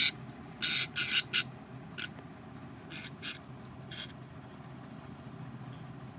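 Budgerigars squawking: a quick run of harsh, short calls in the first second and a half, then single calls spaced about a second apart that die away after about four seconds. A steady low hum sits underneath.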